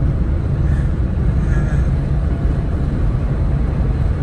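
A car being driven: steady engine and road rumble heard from inside the cabin.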